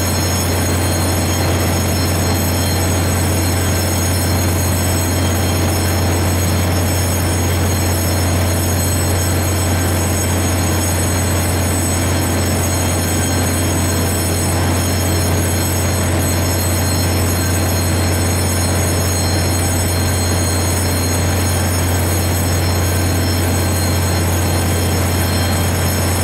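Stationary Chu-Kuang express train standing at the platform with its equipment running: a steady low hum with a constant high whine over it.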